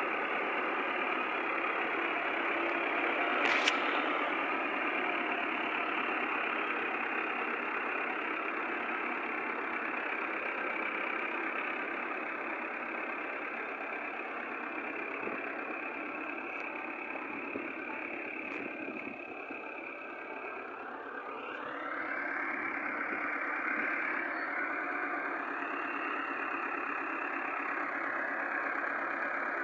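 Millat tractor's diesel engine running steadily, with a sharp knock a few seconds in. The engine eases off around twenty seconds in and picks up again about two seconds later.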